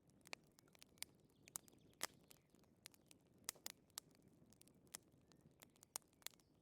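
Quiet wood fire crackling: irregular sharp pops and snaps, a few louder than the rest, over a soft low rumble.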